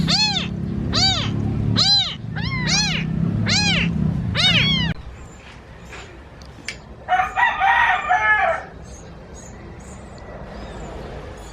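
A cat meowing over and over, about two short meows a second, over a low hum that stops about five seconds in; then a rooster crows once.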